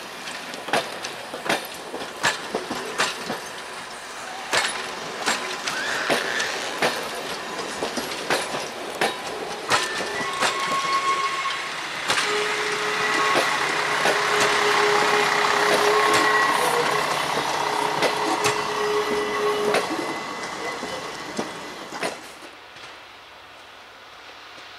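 Regionova diesel railcar moving slowly on shunting moves, its wheels clicking irregularly over rail joints and points. Midway a steady whine joins in and the sound swells, then fades away near the end.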